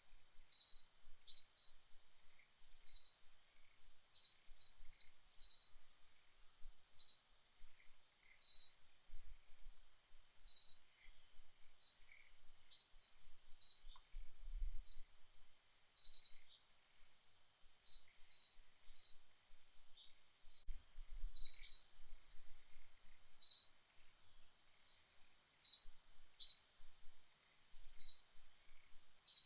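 A small bird chirping over and over: short, high, sharp chirps, about one or two a second at uneven intervals, over a faint steady high hiss.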